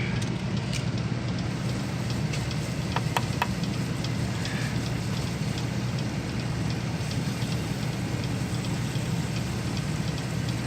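Spray of water or coil cleaner pattering and dripping on a greasy air-conditioning evaporator coil, with scattered small crackles over a steady low hum.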